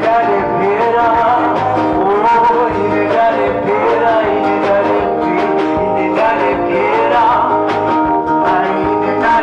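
Live acoustic music: a singer's voice over a strummed and plucked guitar.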